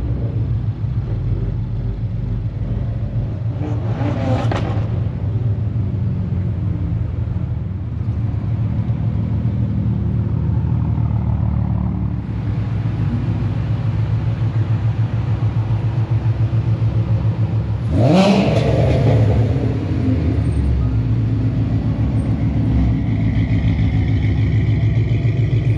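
Car engines running at low speed as cars roll in, a steady low rumble, with a short rev about 18 seconds in.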